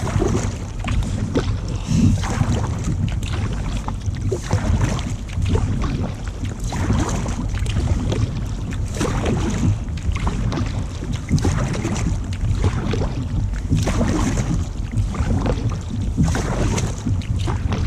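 Wind buffeting the microphone: a loud, steady low rumble broken by irregular gusty thumps.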